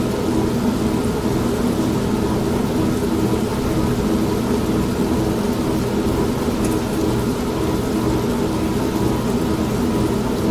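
Old manual washing machine running steadily with a low, even hum, mixed with the steady hiss of rain.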